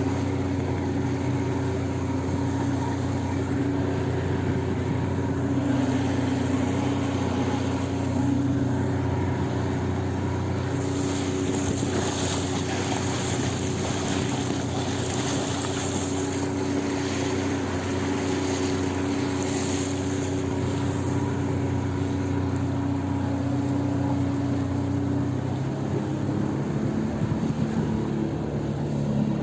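1991 Evinrude 70 hp two-stroke outboard motor running steadily at moderate speed, with water hiss along the hull in the middle stretch. The engine note drops slightly near the end.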